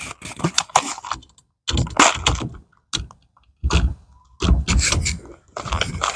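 Irregular clicking and knocking of tools and small parts being handled, in several short clusters with pauses between them.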